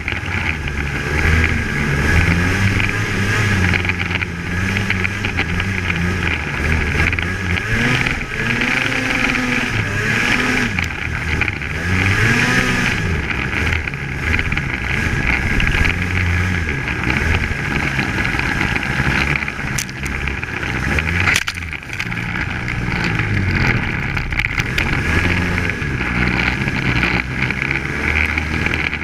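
Polaris Axys 800 snowmobile's two-stroke engine under way, its pitch rising and falling again and again as the throttle is worked, with a steady high whine over it.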